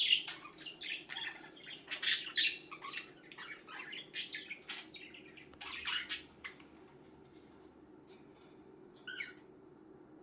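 Budgerigars chirping and chattering in quick short calls, which thin out after about six seconds to a single brief call near the end over a low steady hum.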